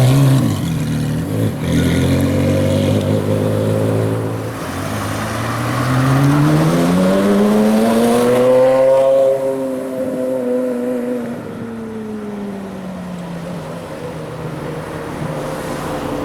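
Porsche Carrera GT's V10 engine running low at first, then revving up with a rising pitch for about four seconds. The pitch then sinks slowly and the sound fades as the car draws away.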